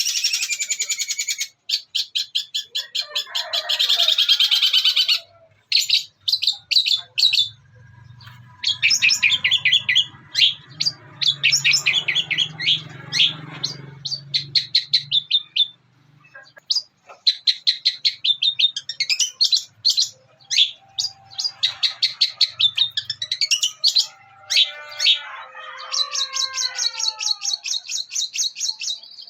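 Long-tailed shrike (cendet) singing in bursts of rapid, high, chattering notes, a song made up of calls it has learned to mimic, ending in a steady fast trill.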